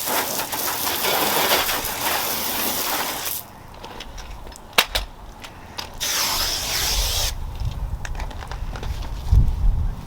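Soft99 RainDrop Bazooka sealant hissing out of its spray bottle onto car paint: one long spray of about three seconds, then a shorter one about six seconds in, with a single sharp click between them.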